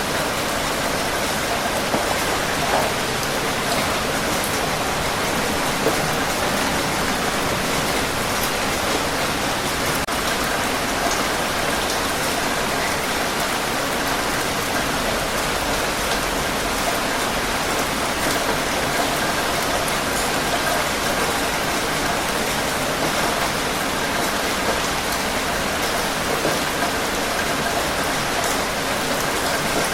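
Steady heavy rain falling on surfaces, a dense even hiss with small drop patters throughout.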